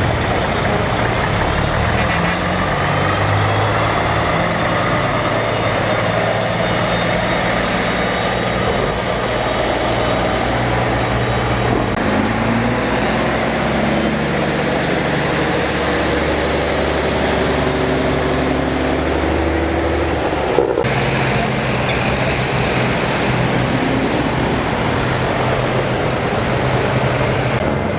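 Heavy trucks' diesel engines running as they drive past one after another, their low engine notes shifting in pitch as each truck goes by.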